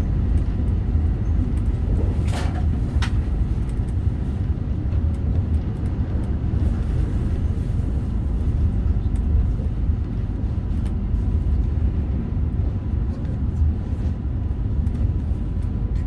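Meitetsu Panorama Super train running along the line, a steady low rumble of wheels and running gear heard from inside the passenger cabin. A short hiss cuts in about two seconds in.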